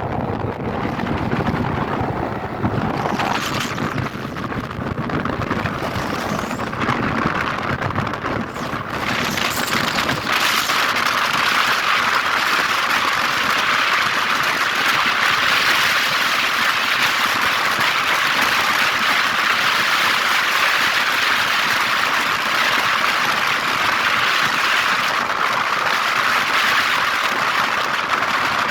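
Vehicle travelling along a road: a rumble for the first ten seconds or so, then a steady, even hiss of road and wind noise.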